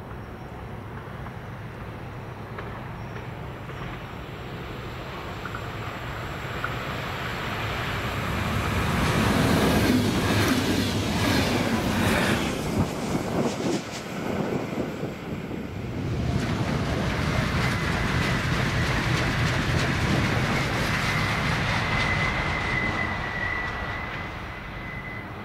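A Renfe train passes. Its noise builds for several seconds to a loud stretch of wheels knocking over rail joints about ten seconds in, dips briefly, then stays loud again, with a thin steady high whine in the last few seconds as it fades.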